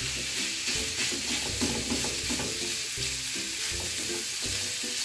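Ground beef sizzling steadily in hot oil in a frying pan, stirred and turned with a wooden spoon.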